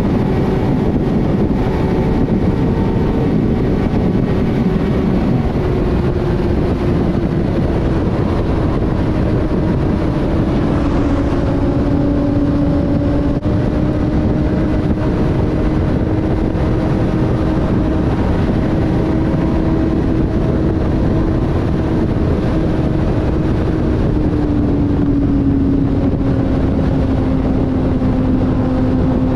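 Inline-four sport motorcycle engine running at a steady highway cruise under loud wind and road noise; its pitch eases down a little about ten seconds in and again later.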